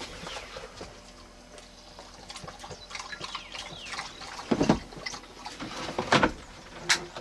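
A dog lapping water from an enamel bowl, a quick run of small wet clicks, with two louder knocks in the second half.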